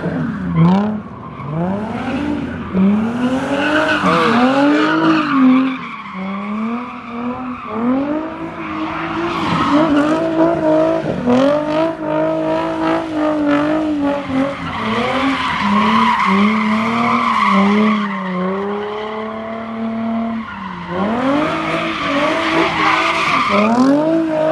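Car engine revving up and down again and again while the tyres squeal and skid, as in donuts or burnouts, with the squealing loudest in two long stretches in the second half.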